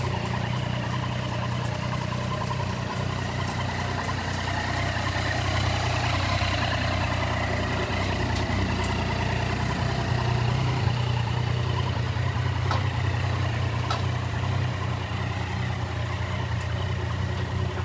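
Yamaha Tracer 900GT's three-cylinder engine idling steadily.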